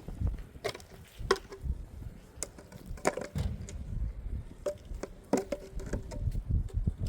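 Irregular sharp knocks and cracks, about a dozen over the span, mixed with low thuds.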